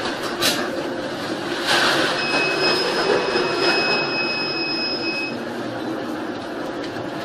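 Storm noise at sea: a continuous rush of wind and water with sudden louder surges in the first two seconds. A steady high-pitched tone sounds for about three seconds in the middle.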